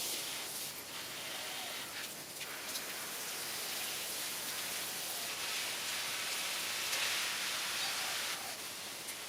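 Garden hose spraying water onto plants and ground, a steady hiss that grows louder for a few seconds in the second half.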